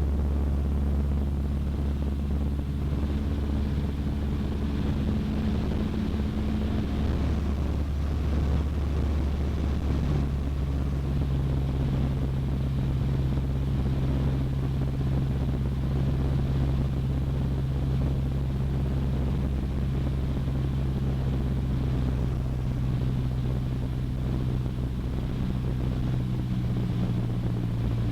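Cessna 152's four-cylinder Lycoming O-235 engine and propeller droning steadily, heard inside the cabin. The engine note shifts slightly about ten seconds in.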